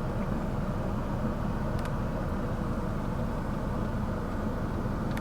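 Steady low rumble and hiss of a car running, with a few faint clicks.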